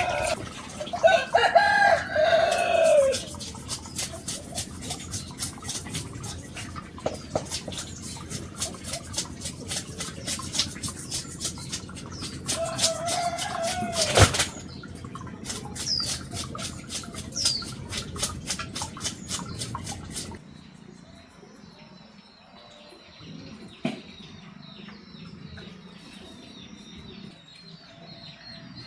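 Chickens clucking, with a rooster crowing near the start and again about 13 seconds in. A rapid run of sharp clicks or scrapes runs under them and stops about twenty seconds in, after which only fainter high chirps remain.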